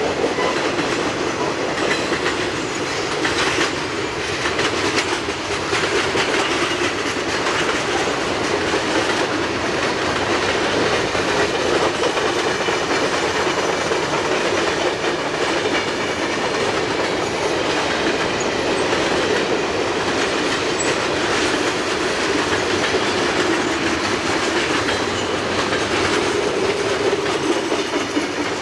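Freight train cars rolling past, steel wheels steadily clacking over the rail joints.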